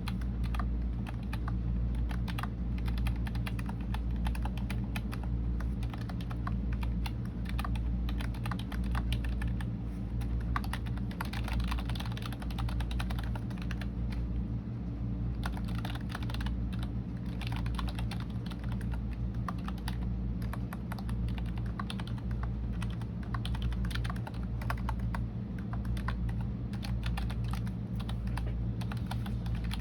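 Continuous typing on a computer keyboard: quick, irregular key clicks with a brief lull about halfway through, over a steady low background hum.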